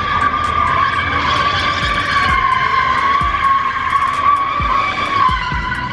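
Car tires screeching continuously as the car slides on pavement under power, one high steady-pitched squeal that wavers slightly, with the engine running underneath.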